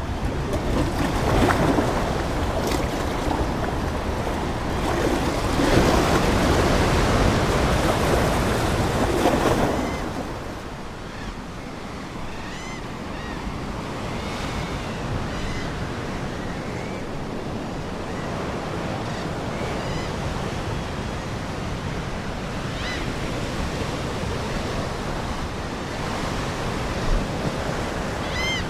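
Ocean waves surging and washing ashore, loudest in the first third, then settling to a calmer wash, with seagulls giving short repeated calls through the second half, loudest near the end.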